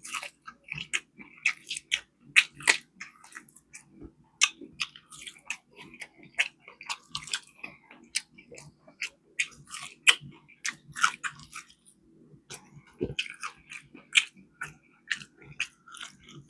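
Close-up mouth sounds of a person chewing and biting fried chicken wings: many short, irregular wet clicks and smacks, with a brief lull about twelve seconds in.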